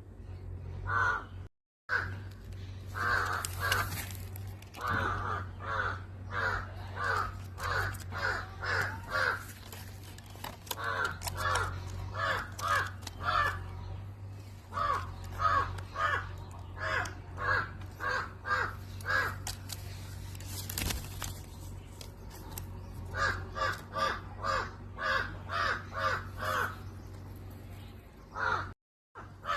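A bird giving harsh calls in long quick runs, about two a second, with short breaks between runs, over a steady low hum.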